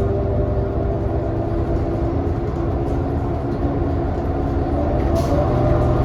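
Cabin sound of a 2018 New Flyer XD40 diesel transit bus under way: a steady engine and drivetrain rumble with several droning tones, the odd, messed-up sound this coach is known for. A brief click about five seconds in.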